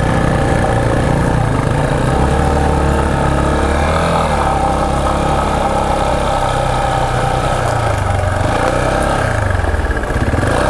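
Single-cylinder four-stroke engine of a Yamaha Serow 250 trail bike running under the rider, heard from on board, its note rising and falling with the throttle on a rough forest track, dipping briefly about four seconds in and again near the end.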